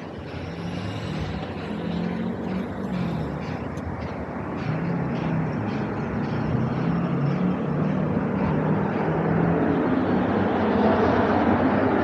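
Low droning engine noise with a wavering hum, growing steadily louder.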